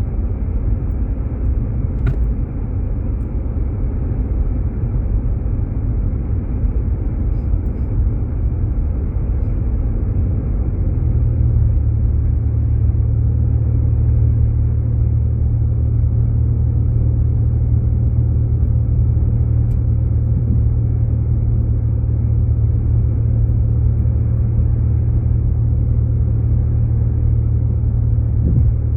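Cabin road noise of a Jeep Grand Cherokee driving on a snow-covered road: a steady low rumble from the tyres and engine, growing louder about eleven seconds in.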